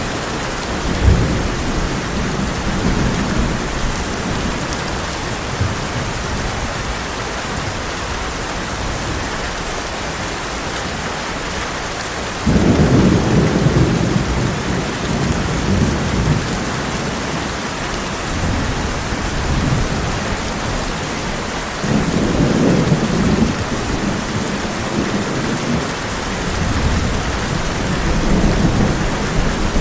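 Heavy rain falling steadily on a tin roof, with low rolls of thunder. Two louder rumbles break in suddenly, about twelve seconds in and again about twenty-two seconds in.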